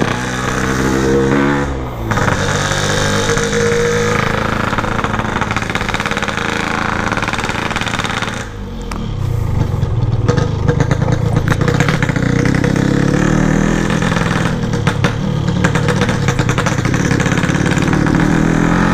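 Yamaha RX-King's 135cc single-cylinder two-stroke engine running through its exhaust, engine speed rising and falling with the throttle. The revs drop about two seconds in and again around eight and a half seconds, then the engine runs on steadily.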